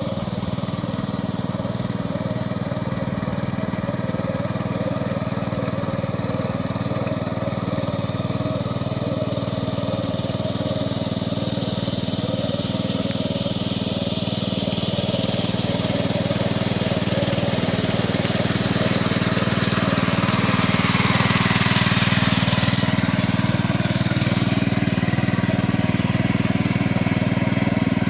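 Small engine of a Champ power weeder running steadily, with a swell of higher hiss and a little more loudness around twenty seconds in.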